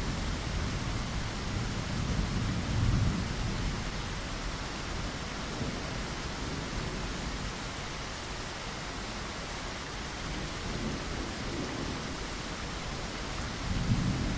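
Steady rain falling, with low thunder rumbling twice, once about two to three seconds in and again near the end.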